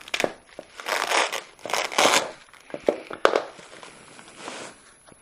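Packaging being crinkled and torn open in short irregular rustling bursts with sharp clicks, as a motorcycle muffler is unwrapped.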